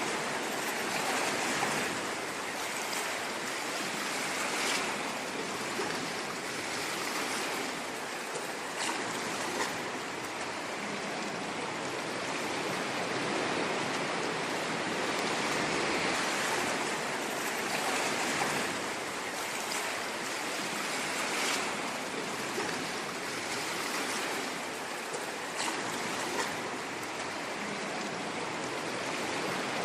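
Ocean waves: a steady rush of surf that swells gently every few seconds.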